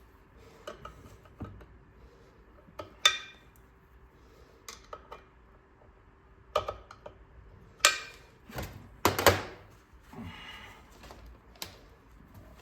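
Hand tools and metal engine parts being handled during a small-engine teardown: scattered clicks and knocks, with four louder metallic clanks, some of them ringing briefly.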